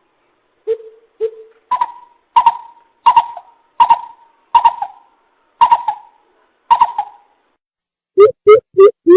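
Coucal hooting: a series of deep, hollow hoots, two low ones and then about eight higher ones roughly a second apart. After a short pause, a faster run of lower hoots begins near the end.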